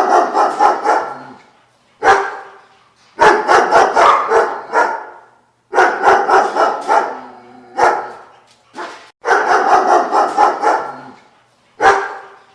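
Dog barking in rapid runs of several barks, the runs repeated every few seconds with a short single bark or two between them.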